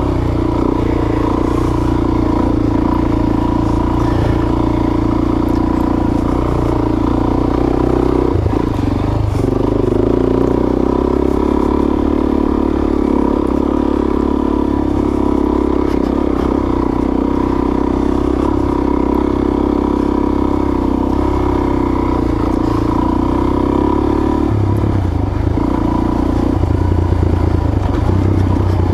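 Suzuki DR-Z400S dual-sport motorcycle's single-cylinder four-stroke engine running steadily while riding single-track trail. Its note shifts briefly about nine seconds in and again near twenty-five seconds.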